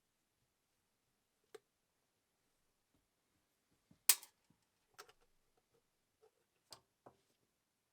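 Scattered light clicks and clacks of hard parts and tools being handled during a sewing machine's repair, with one sharper clack about four seconds in.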